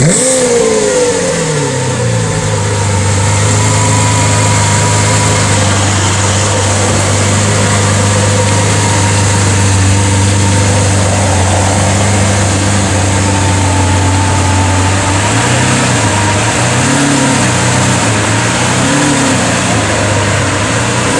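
Lamborghini Aventador LP700-4's V12 with a Capristo exhaust, freshly started: the revs fall from a flare over about two seconds and settle into a steady idle. Over the last several seconds it gets a few light throttle blips.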